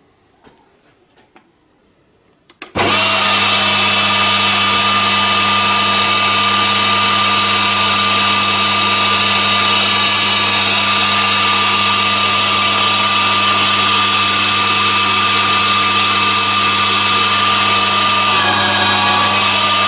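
Chinese mini lathe with a DC motor controller starting abruptly about three seconds in and running at a steady speed, with a constant hum and a steady high whine from the motor and gear train, as it goes back in for a lighter turning cut. The whine shifts slightly near the end.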